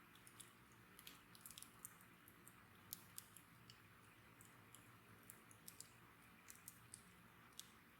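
Bonfire burning quietly, the wood giving off scattered small snaps and pops at irregular intervals over a faint steady hiss.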